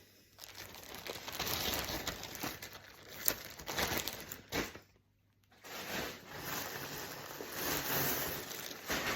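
Plastic clothing packaging rustling and crinkling as it is handled and opened, with a few sharp crackles and a brief silent break about halfway through.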